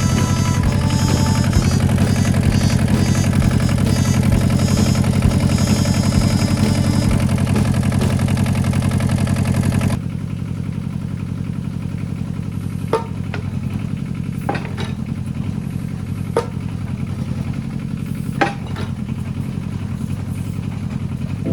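Kubota KH-007 mini excavator's diesel engine running steadily. About halfway through the sound drops abruptly to a lower, duller run, and a few sharp knocks come through over it.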